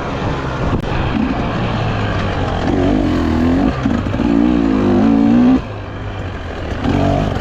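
Dirt bike engine revving up and down under throttle as it rides the trail, the pitch rising and falling with each blip. The throttle comes off about five and a half seconds in and the engine drops to a lower, quieter running.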